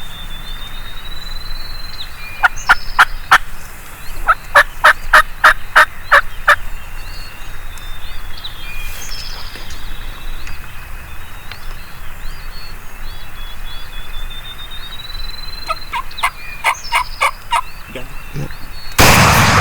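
Wild turkeys calling: two runs of loud, evenly spaced yelps, with another looser run later on. Near the end a single shotgun blast, the loudest sound, as the longbeard is shot.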